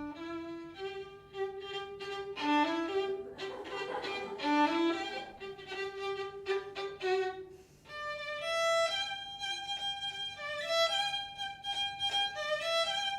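Solo violin playing a short melodic passage of bowed notes in a bright, ringing tone, with a brief break about eight seconds in before the melody goes on in a higher register.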